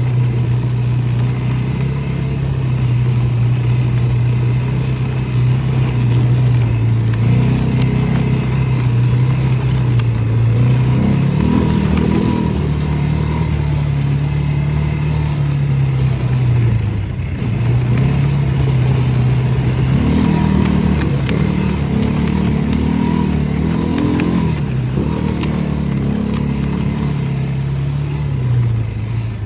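ATV engine running continuously while riding, its pitch rising and falling with throttle changes, most noticeably in the middle and in the last third.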